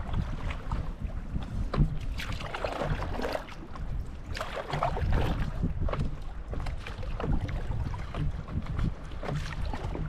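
Paddle-board paddle strokes splashing in choppy lake water, with wind rumbling on the microphone throughout; two louder sloshing swells come about two and about four and a half seconds in.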